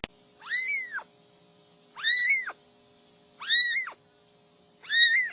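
A cat meowing four times in a row. Each meow is about half a second long, rises then falls in pitch, and comes about a second and a half after the last.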